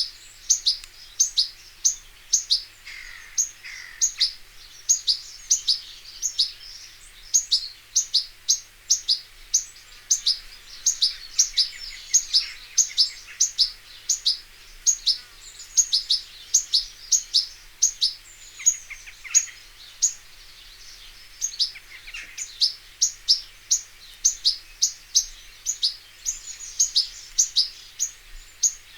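European goldfinch calling: a long run of short, high chirps, about three a second, with a few brief lulls.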